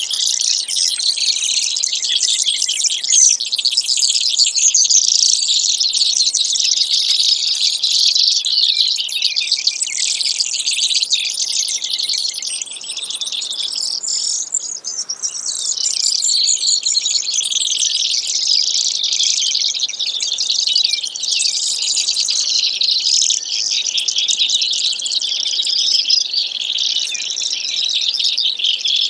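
Brewer's sparrow song: rapid, high-pitched trills and chips running almost without a break, with a short lull about halfway through.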